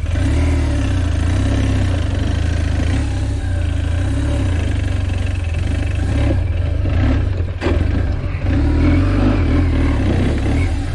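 Big adventure motorcycle's engine working hard under load up a steep dirt climb, its note wavering with the throttle over a heavy low rumble. A sharp knock comes about seven and a half seconds in.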